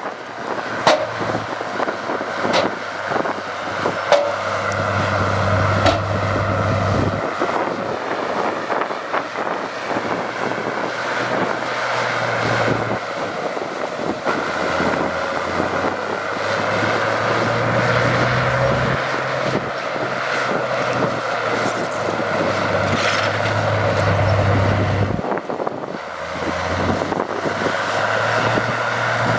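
Diesel engine of heavy earthmoving machinery running and working, its drone rising and easing under load. There are a few sharp knocks in the first six seconds.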